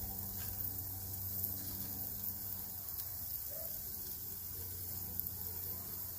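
Chicken breasts sizzling on a gas grill: a steady hiss with a few faint crackles, over a steady low hum.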